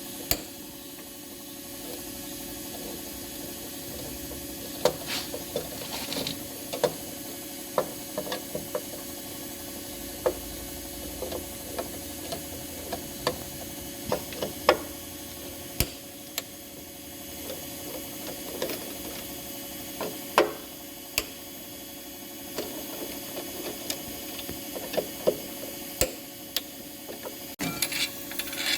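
Scattered sharp clicks and knocks as a front-load washing machine's direct-drive stator is worked off by hand and with tools, over a steady background hiss.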